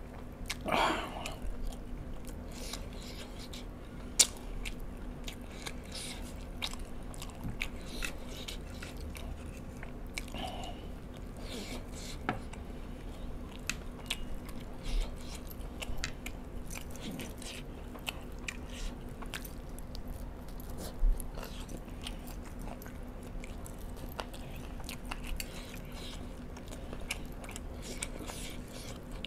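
Close-up eating sounds: a man biting and chewing spicy chicken wings, with many short wet mouth clicks and smacks. There are two louder sharp clicks, about four seconds in and about twenty-one seconds in.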